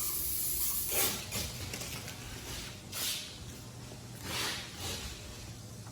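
Compressed-air tool hissing in three short bursts, about a second, three seconds and four and a half seconds in, over a steady faint hiss, typical of an air gun or spray gun used in auto body painting prep.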